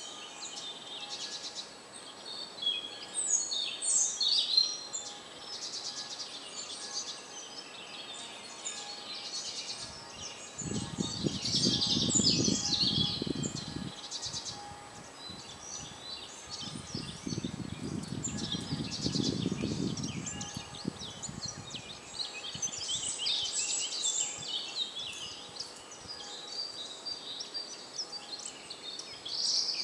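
Several songbirds singing and calling, their songs overlapping throughout. About ten seconds in, and again about seventeen seconds in, a low rumble rises under the birdsong and lasts three to four seconds each time.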